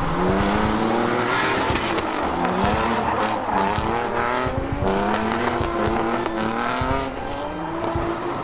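Drift car engine revving hard, its pitch climbing and dropping again and again through the gears as the car slides, with tyres squealing.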